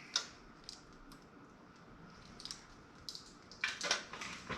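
Light clicks and small rattles of computer parts and cables being handled, with a louder cluster of clicks near the end.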